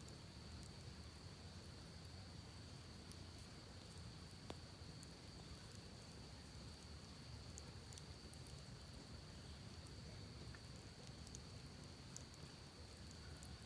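Campfire crackling faintly with sparse sharp pops, the clearest about four and a half seconds in, over a steady high insect drone and a low rush of creek water.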